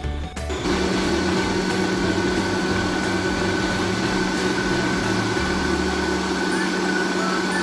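Electric mixer motor running steadily, beating butter and sugar to a cream; its steady hum comes in about half a second in.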